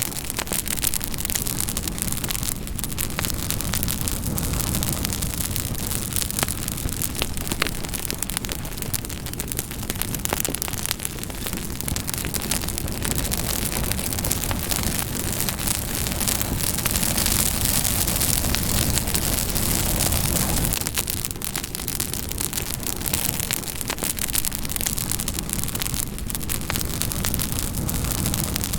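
Campfire burning with a steady hiss and frequent small crackles and pops of burning wood.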